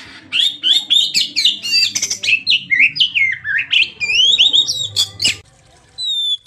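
Oriental magpie-robin (kacer) in full song: a fast, varied string of chirps, trills and slurred whistles. It breaks off about five and a half seconds in, then resumes with clearer whistled notes near the end.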